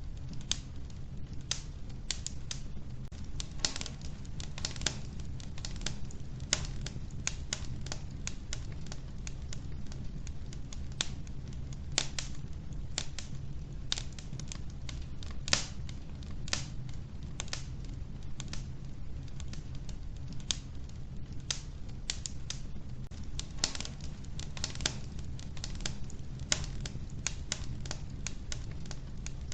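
Wood fire burning in a wood-burning stove, logs crackling and popping in sharp irregular clicks over a steady low rumble of the flames.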